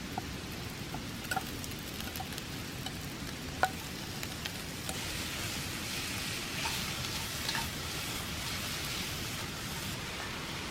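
Ingredients for hayashi rice sizzling in a pan, with scattered clicks of utensils; the sizzling grows stronger about halfway through.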